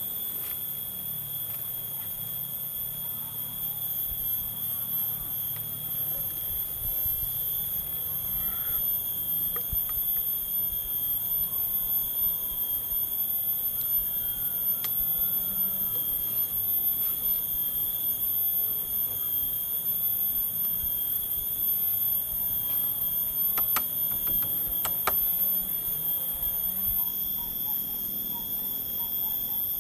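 Steady high-pitched drone of forest insects, layered at several pitches, with faint chirps. A few sharp knocks come close together late on.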